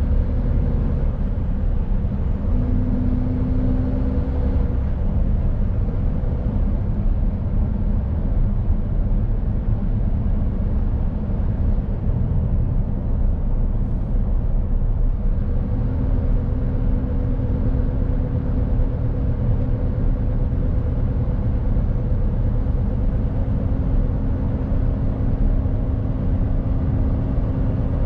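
Mercedes-Benz Actros truck's diesel engine and tyres driving on the road, a steady low rumble. A humming engine note drops away for about ten seconds in the middle and then comes back.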